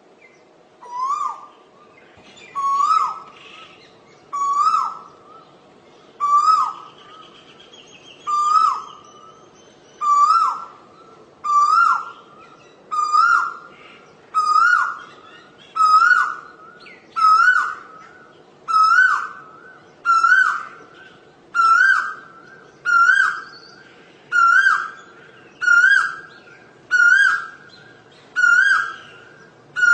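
Asian koel calling over and over, about eighteen loud calls in a row, each a little higher in pitch and sooner than the last, the escalating series koels use.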